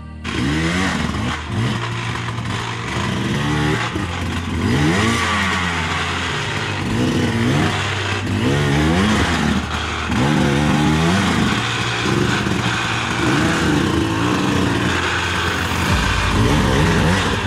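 Dirt bike engine revving up and falling back over and over, about once every second or so.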